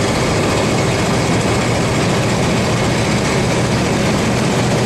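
Engine of a mid-1970s Chevrolet farm truck running steadily with a deep, even drone, heard from inside the cab.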